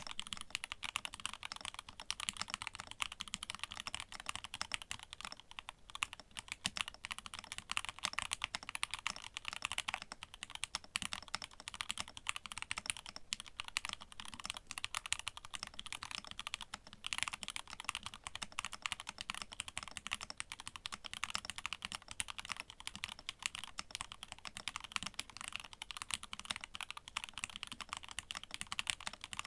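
Continuous fast typing on a custom mechanical keyboard with an aluminium plate, lubed and filmed Nixie linear switches and Durock stabilizers under GMK doubleshot ABS keycaps: a dense stream of key clacks.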